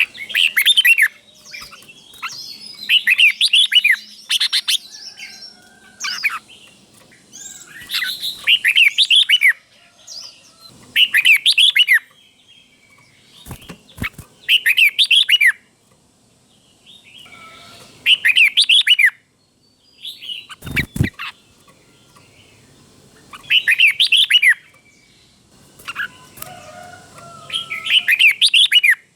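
Red-whiskered bulbul singing, short phrases of quick whistled notes repeated every two to three seconds, delivered as doubled phrases (the 'beun' song prized in a tutor bird). Two sharp knocks sound between phrases, one about halfway in and one about two thirds of the way through.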